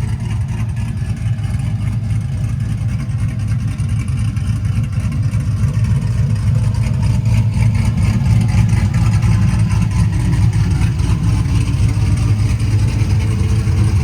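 Cammed pickup truck engine running with its mufflers removed, loud and steady, growing a little louder about halfway through.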